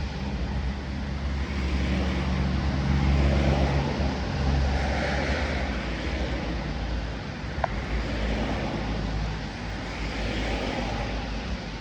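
Road traffic going by: a vehicle engine's low hum that fades after about six seconds, under tyre hiss that swells and ebbs as cars pass. There is a single sharp click about two-thirds of the way in.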